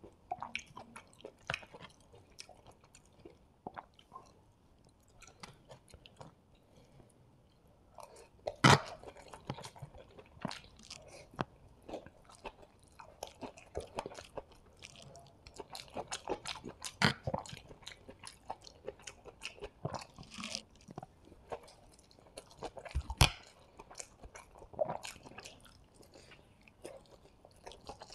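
Close-miked chewing of hakka noodles and chilli chicken, a steady run of small wet mouth clicks and crunches. Three much louder sharp clicks stand out at intervals of about eight seconds.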